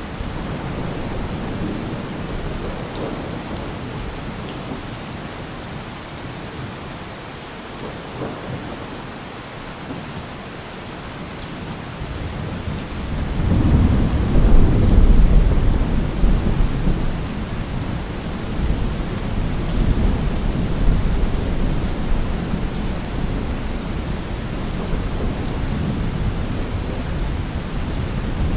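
Steady heavy rain with rolling thunder. A long, deep rumble of thunder builds about halfway through and slowly fades, and more rumbles follow.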